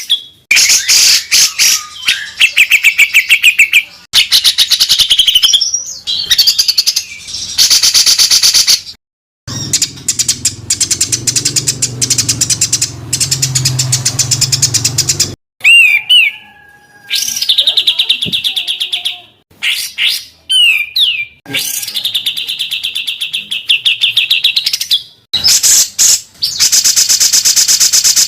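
Recorded songbirds giving fast, harsh rapid-fire bursts of song (tembakan), one short trilled sequence after another with brief gaps. About ten seconds in there is a lower-pitched rattling stretch lasting several seconds.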